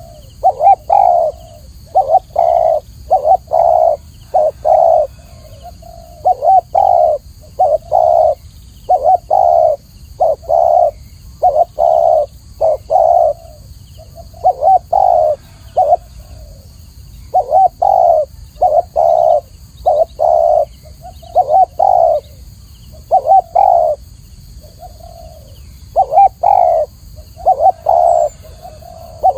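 Spotted dove (Spilopelia chinensis) cooing over and over: phrases of several short, low coos, one after another with brief pauses between phrases.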